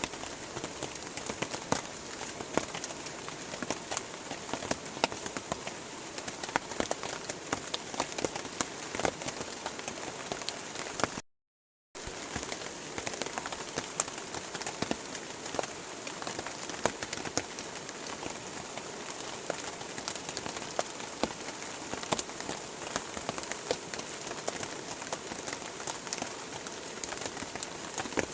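Steady rain falling, with many close raindrop hits. The sound drops out completely for about half a second around eleven seconds in.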